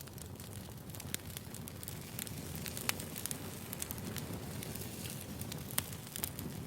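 Firewood burning, a steady low rumble of flames with scattered sharp crackles and pops; the two loudest pops come about three seconds in and shortly before the end.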